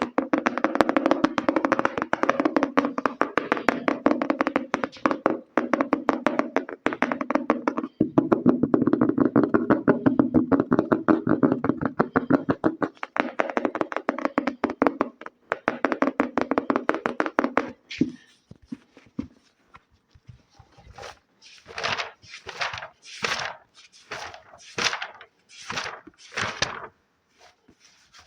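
Very fast fingertip tapping on an object, a dense run of taps for about eighteen seconds. After a short pause come a series of separate short, crisp strokes, about one a second.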